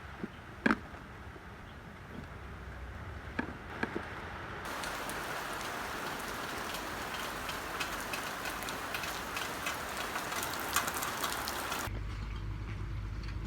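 Rain falling and pattering on a surface, a dense hiss with fine crackling drops that starts suddenly about five seconds in and cuts off abruptly near the end, leaving a low hum. A few sharp knocks come before the rain.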